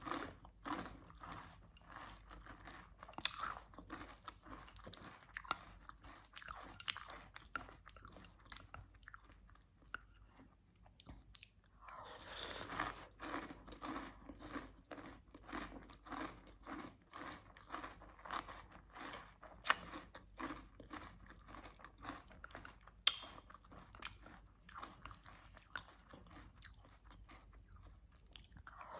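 Close-miked chewing of crunchy chocolate cereal soaked in chocolate milk: a steady run of wet, crackling crunches with a few sharper bites, easing off briefly about a third of the way through before picking up again.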